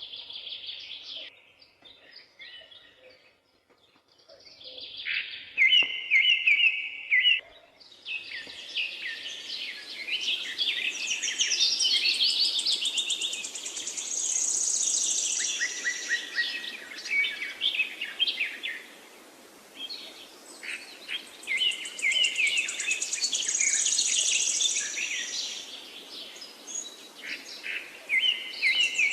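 Several wild birds singing and chirping in overlapping, varied phrases. From about eight seconds in, a steady hiss of background noise runs under the songs.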